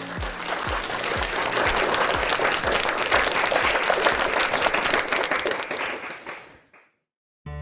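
Applause-like clapping over music with a steady kick-drum beat, fading out about two-thirds of the way through. A different, gentler music track with held notes starts right at the end.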